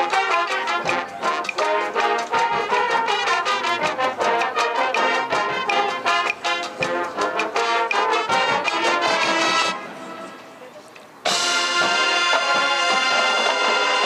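High school marching band brass and percussion playing a fast, accented passage, which breaks off just before ten seconds in; after a short pause the band comes back in with a loud held brass chord.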